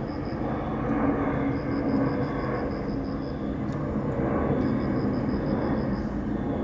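Outdoor ambience: a steady low rumble with repeated trains of quick high chirps, about six a second, from insects, and a couple of sharp clicks.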